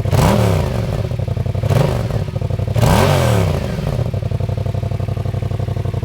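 A 2016 Yamaha FZ-07's parallel-twin engine idling through its stock exhaust, which has been drilled with holes as a free exhaust mod. The throttle is blipped three times in the first three seconds, each rev rising and falling back, and the engine then settles into a steady idle.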